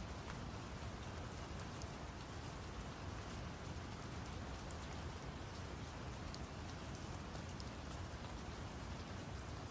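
Steady rain falling, with scattered drop ticks, over a deep, even brown-noise rumble.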